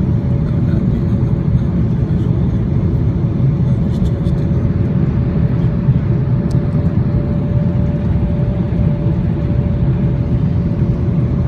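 Steady, loud engine and airflow noise inside the cabin of an Airbus A340 airliner during landing, with a constant mid-pitched hum running through it.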